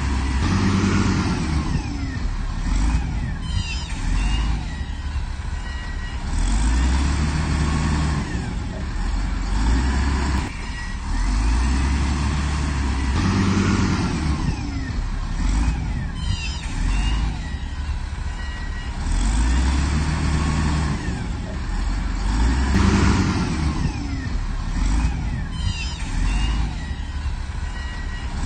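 Heavy diesel earthmoving machine working under load, its engine revving up and easing off in repeated cycles about every six seconds, with short high squeaks in between.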